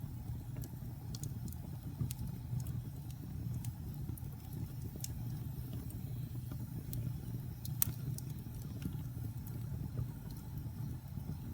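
Wood fire in a fireplace crackling: scattered sharp pops and snaps over a steady low rumble, with the loudest pop near the end.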